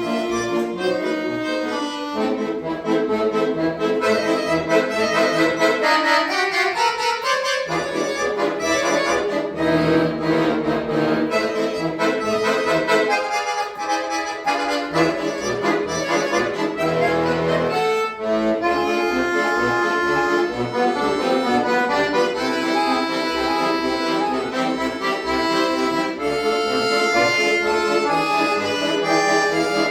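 Accordion duet playing continuous music, with a quick upward run of notes about six to eight seconds in and a short stretch near the middle where the low bass notes drop out.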